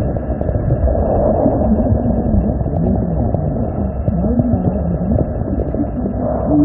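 Steady, muffled rumble of river water heard through a smartphone's microphone held underwater, with faint wavering tones running through it.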